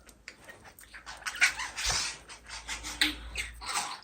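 Pet parakeet making a rapid series of short, harsh chirps and squawks, with a single thud about two seconds in.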